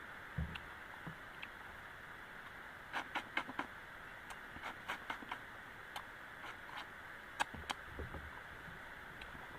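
Scattered sharp clicks and taps of someone eating a meal, with a couple of dull low thumps, over a steady hiss of rain.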